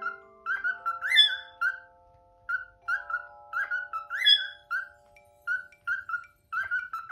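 Pearl cockatiel whistling a run of short repeated chirps, about two to three a second, with a louder rising-and-falling whistle about a second in and again about four seconds in. Soft piano background music holds long notes underneath.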